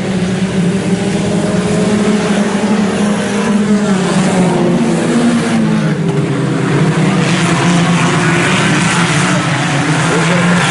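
A pack of IMCA Sport Compact race cars running together on a dirt oval, their four-cylinder engines blending into one steady drone that wavers in pitch as the cars go around.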